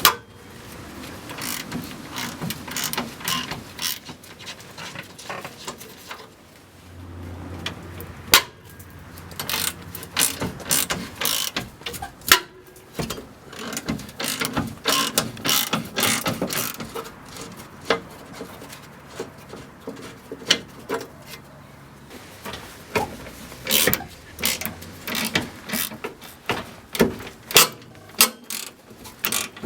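Hand ratchet wrench clicking in irregular runs, with sharp metallic clicks and knocks, as bolts are worked on the truck's rear bumper.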